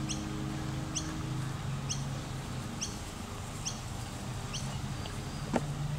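A bird repeating a short, high chirp that falls in pitch, about once a second, over a steady low hum. A single sharp click near the end.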